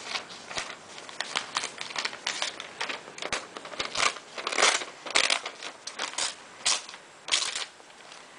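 A folded sheet of paper being cut and handled, heard as a series of short crisp crackling strokes and rustles, with a few longer strokes partway through.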